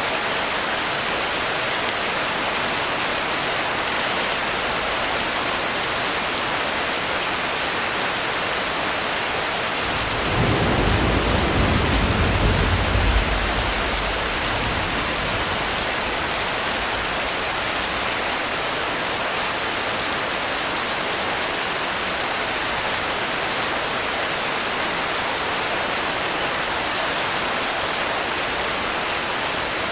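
Steady rain falling, with a low roll of thunder about ten seconds in that swells for a few seconds and fades.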